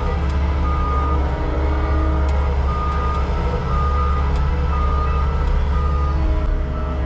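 Heavy earthmoving machine's engine running steadily with a deep rumble, its backup alarm beeping at regular intervals.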